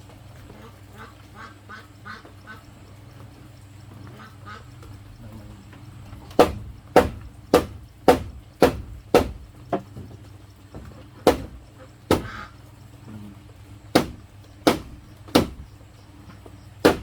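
Ducks quacking faintly in short runs for the first few seconds. Then comes a series of loud, sharp blows of a tool striking bamboo, about two a second with short pauses, some thirteen in all.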